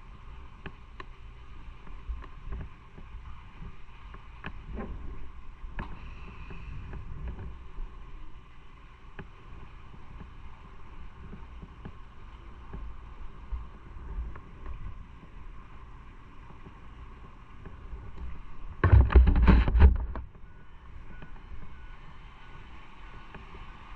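Motorcycle riding on the road: steady engine and road rumble with wind on the microphone, and one loud rumbling burst lasting about a second late on.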